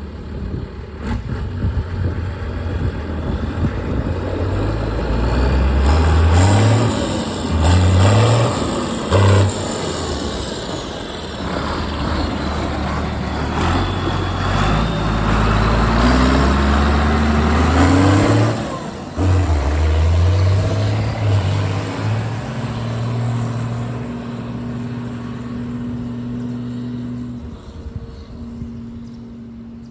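Valtra 8100 tractor's six-cylinder diesel engine working, its pitch climbing and dropping several times as it revs up and eases off, then settling to a steadier, quieter run over the last several seconds.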